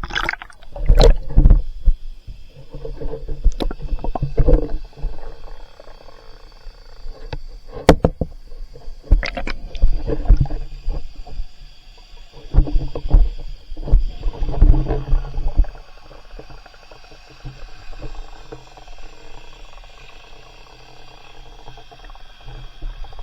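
Kayak paddling on water: uneven splashes and sloshing with deep thumps, loudest in bursts through the first two-thirds, then settling into a quieter, steadier wash.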